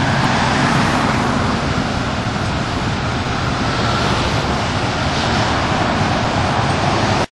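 Steady road traffic noise of vehicles driving by, a continuous low rumble with hiss. It stops abruptly near the end.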